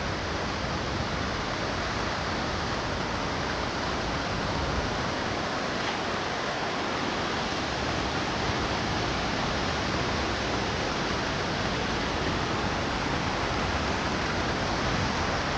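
Waterfall in heavy flow, a steady loud rush of falling water swollen by recent rain.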